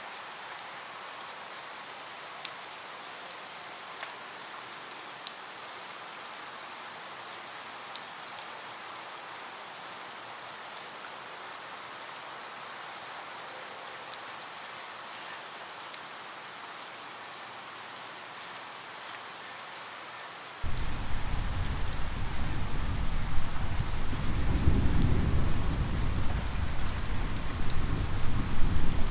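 Steady rain falling, a hiss dotted with small ticks of drops. About two-thirds of the way in, a low rumble of thunder comes in abruptly and swells, becoming the loudest sound.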